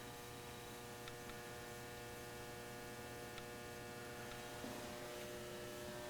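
Faint steady electrical mains hum, with a few faint clicks.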